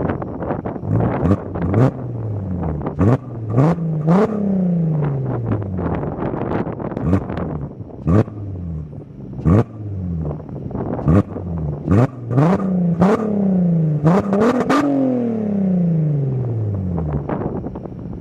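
Audi A3 3.2's VR6 engine revved through a custom exhaust. It gives a series of quick throttle blips, each rising sharply and falling back slowly toward idle, with several coming in quick succession around the middle and near the end.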